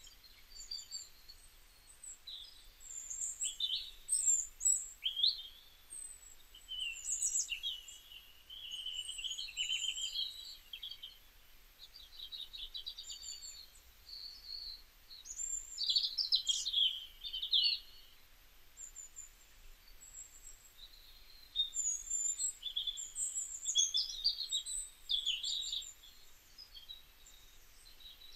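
Birds chirping and singing: a busy run of high chirps and quick trills, with brief lulls between phrases.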